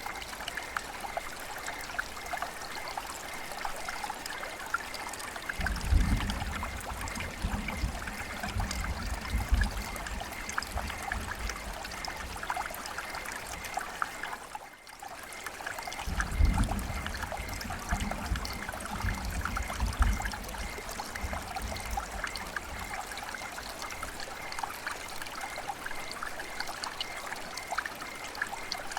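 River water flowing with a steady trickling, babbling splash. Twice, for about five seconds each, a low rumble joins it, and the sound drops briefly near the middle.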